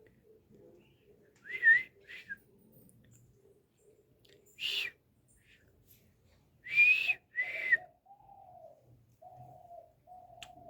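Pet parrot whistling: about five short, sharp, loud whistles, then a run of softer, lower whistled notes in the last few seconds.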